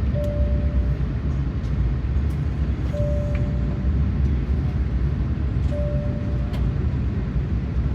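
Steady low rumble inside an Airbus A380-800 cabin on the ground before takeoff, with a short steady tone repeating about every three seconds.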